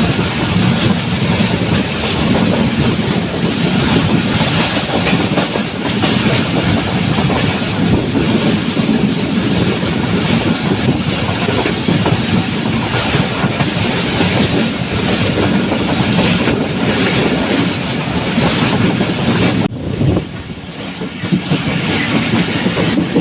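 Train passing close by, its wheels clattering over the rail joints in a steady loud rush that dips briefly near the end.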